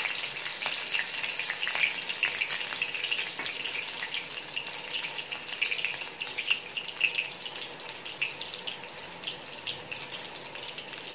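Freshly added green chillies and cumin seeds sizzling in hot ghee, a steady hiss with fine crackling and popping that slowly dies down.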